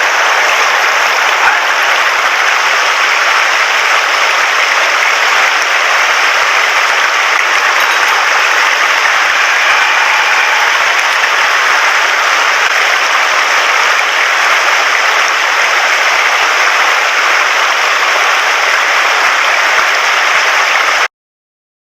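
Steady, loud rush of a fast-flowing mountain stream running high after heavy rain, close to the microphone, cutting off abruptly near the end.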